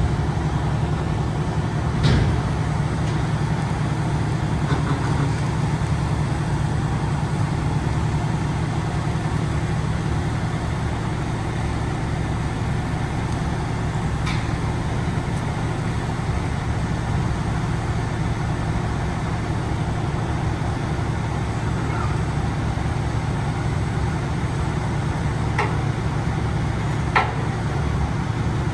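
Freightliner M2 106 garbage truck's diesel engine idling steadily, with a few brief clicks now and then.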